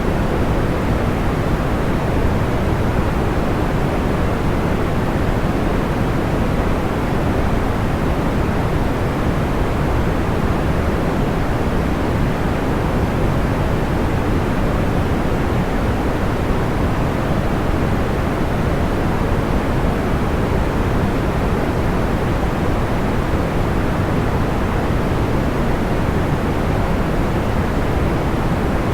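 Steady, deep white noise for sleep: an even hiss weighted toward the low end, with no crackles, pops or changes.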